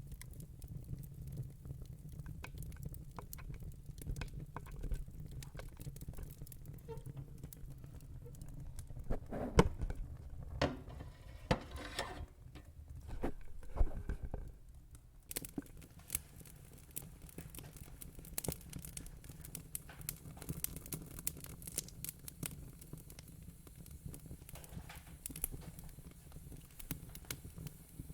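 Fire crackling steadily with scattered small pops and snaps over a low rumble, with a louder run of pops about nine to fourteen seconds in.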